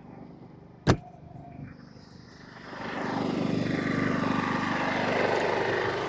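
A sharp knock about a second in. Then, from about two and a half seconds in, a Duramax inverter generator's engine speeds up and runs louder and steady as a water heater's load of about 1,400 watts comes on.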